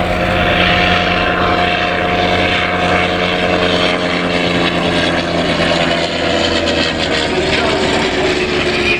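Rotary engine of a First World War Sopwith fighter, flying in an air display: a steady propeller drone whose pitch falls slightly in the last few seconds as it passes.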